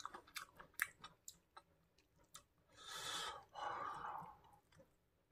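Close-miked chewing of a mouthful of kimchi fried rice, soft wet mouth clicks for the first couple of seconds, then two breathy exhales a little past halfway.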